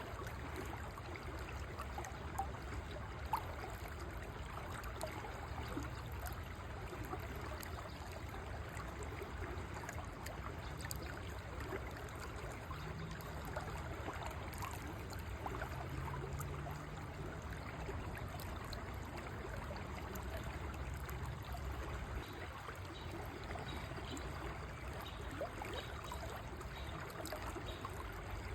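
River water flowing steadily, a constant rush with fine trickling and gurgling.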